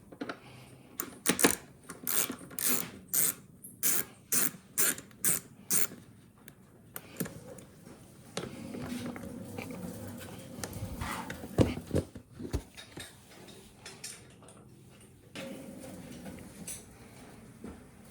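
Hand ratchet wrench clicking in a run of quick, evenly spaced strokes, about two a second, followed by scattered knocks and clatter of tools and parts being handled.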